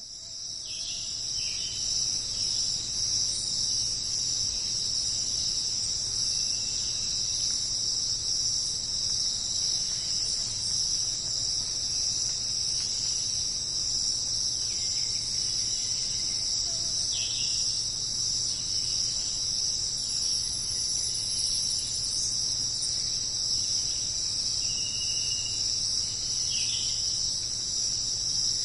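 Dense, steady high-pitched chorus of jungle insects such as crickets, fading in at the start, with a few short lower chirps now and then.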